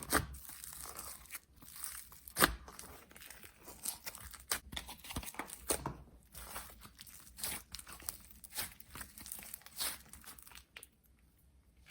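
Slime being worked by hand, giving an irregular stream of crackles and pops. The loudest pop comes about two and a half seconds in, and the crackling stops shortly before the end.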